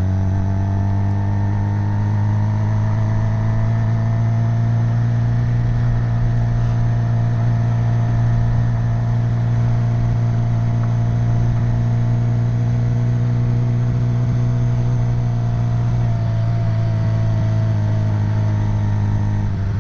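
Suzuki GSX-R750 sport bike's inline-four running at a steady low road speed, with a turbo whistle fitted in the exhaust pipe adding a faint high-pitched whistle under the exhaust note.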